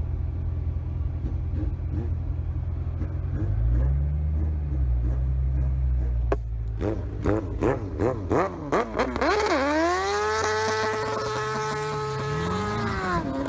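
Motorcycle engine running low and steady, then revved in a string of quick rising-and-falling blips, then accelerating hard to a high, held pitch that drops off near the end.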